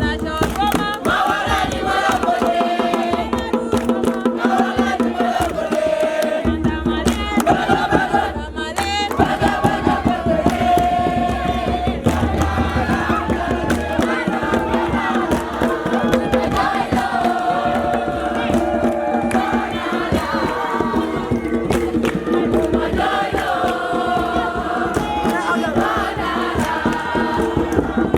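Several voices singing a chant-like song together over fast, steady percussion, without a break.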